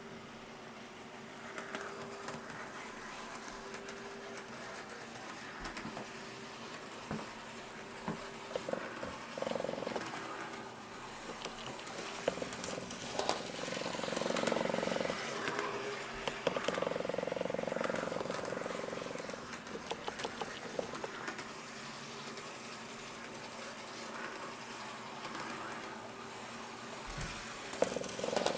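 Small electric motor and gearing of an N-scale model diesel shunter locomotive running along its track: a steady whine with scattered light clicks from the wheels and track.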